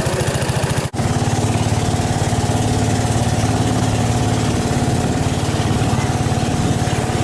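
Engine running steadily with an even, pulsing hum; the sound drops out for an instant about a second in.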